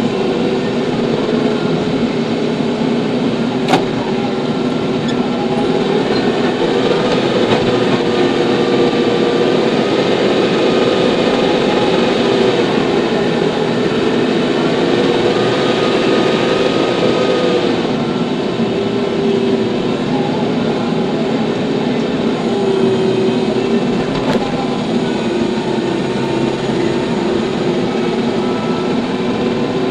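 TYM T574 tractor's diesel engine running steadily, its pitch drifting up and down slightly, with a single sharp click about four seconds in.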